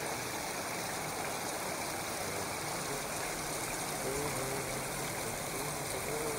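Steady background din of a busy indoor café, with faint voices murmuring in it.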